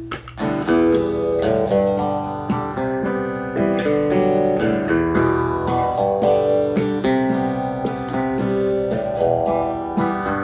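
Acoustic guitar playing, strummed and picked chords changing every second or so, with no singing.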